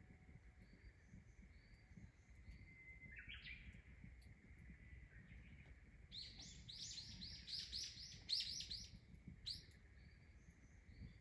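A bird calling: a single short call about three seconds in, then a quick series of about ten high chirps, with one last chirp after a short pause. A faint steady high hum runs underneath.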